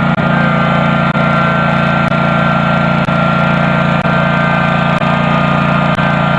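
Custom John Deere garden tractor engine running steadily while plowing, with a brief catch in the sound about once a second.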